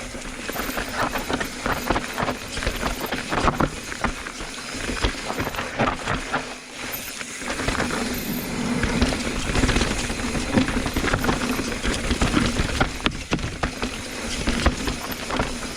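Mountain bike riding down a rough, technical dirt trail: tyres rolling over rocks and roots, with the bike rattling and knocking on the bumps and wind on the microphone.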